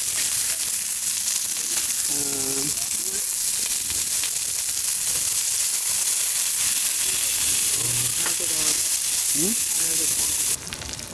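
Food sizzling in a hot pan, a steady frying hiss that cuts off suddenly near the end.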